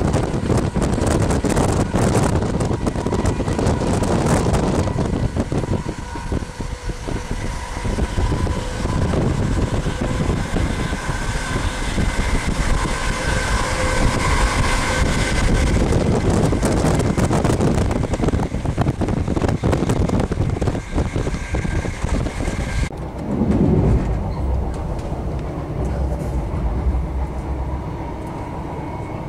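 A train running on the line: loud, continuous wheel-on-rail noise with a faint steady whine of several tones. About 23 seconds in, the higher hiss drops away suddenly and a short falling tone follows.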